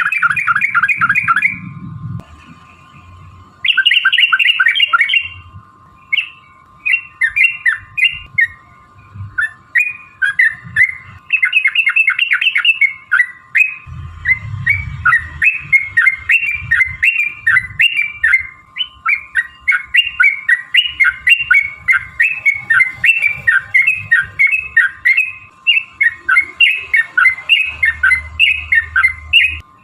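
Yellow-vented bulbul song: loud, bubbling chattering phrases of quick notes, in separate bursts at first, then running on as an almost unbroken rapid series from about halfway through. A faint steady tone sounds underneath.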